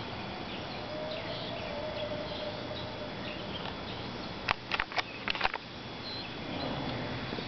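Outdoor background with faint bird chirps. About halfway through, a quick run of sharp clicks or taps.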